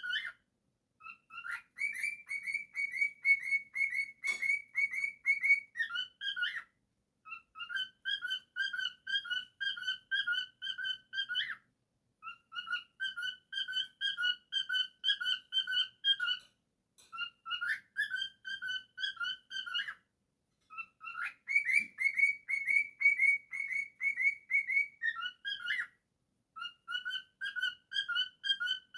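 Cockatiel whistling its song: phrases of rapid, evenly repeated notes, about four or five a second, separated by short pauses, with some phrases pitched higher than others.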